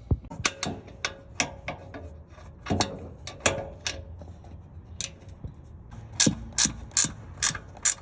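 Ratchet wrench clicking in short strokes: a string of sharp, irregular clicks, louder and more regular in the second half.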